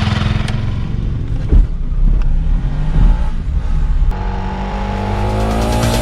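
Motorcycle engine running and accelerating as the bike pulls away, its pitch climbing slowly in the second half. A couple of low thumps on the microphone come early on.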